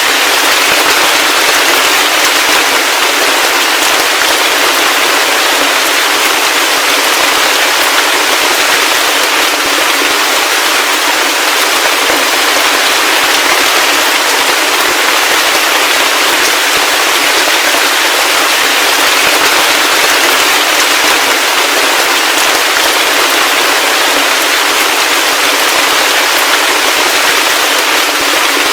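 Heavy rain falling steadily: a dense, even hiss of countless drops, with no low rumble.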